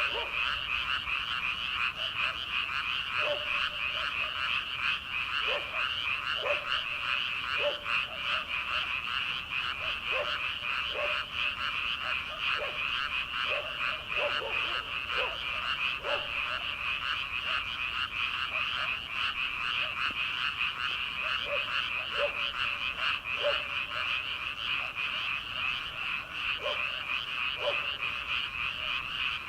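A dense chorus of many frogs calling together, a continuous high chattering trill. Short, lower croaks stand out over it every second or so and thin out briefly midway.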